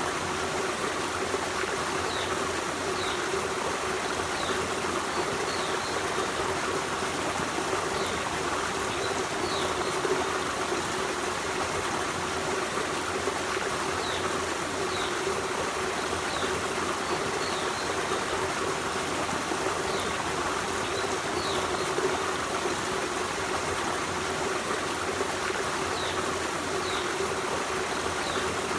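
Forest stream running steadily over rocks, a constant rushing and trickling of water. Short high chirps of small birds come now and then, in little groups of a few calls every several seconds.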